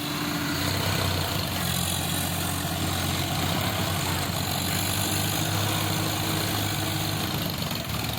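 Tractor engine running steadily at low revs, a constant low hum that eases off slightly at the very end.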